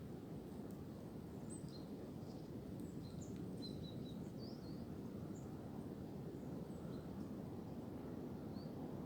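Wind blowing through tree branches, a steady low rush, with short high bird chirps scattered through it.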